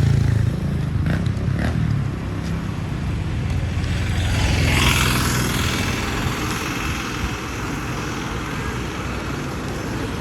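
Street traffic: motor vehicles, motorcycles among them, running past. The engine rumble is loudest in the first second or so, and another vehicle swells and fades about halfway through.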